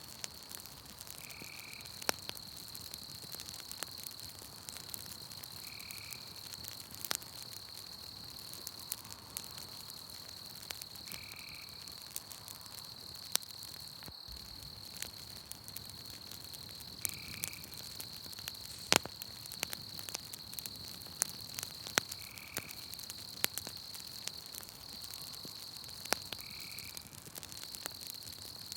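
Campfire crackling with scattered sharp pops, over a steady high insect trill. A short call, tagged as a frog, repeats about every five seconds.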